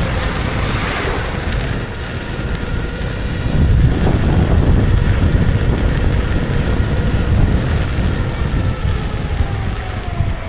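Kukirin G2 electric scooter ride heard from its mounted camera: wind rushing over the microphone with road and tyre rumble, and a thin electric-motor whine that slides down in pitch near the end.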